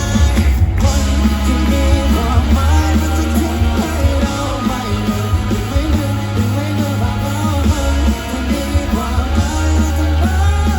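Live rock band playing with a lead vocalist singing over electric guitars, bass and drums, heard loud through a phone microphone's concert recording.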